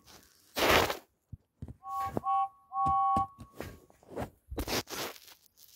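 A two-tone steam engine whistle, blown twice: a short blast, then a longer one. Short rushes of noise come before and after.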